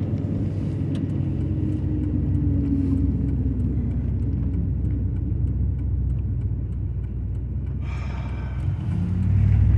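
Dodge Ram pickup truck's engine running with a steady low rumble. It grows louder about nine seconds in.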